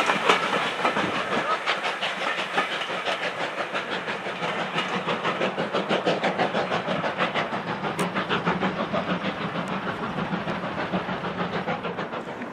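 Steam-hauled train passing at speed: a rapid, regular beat over a steady hiss, slowly fading as it moves away.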